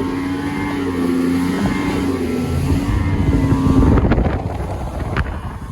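A small fishing boat's engine running at a steady pitch under way, with a rougher, louder rush a few seconds in and a few short knocks near the end.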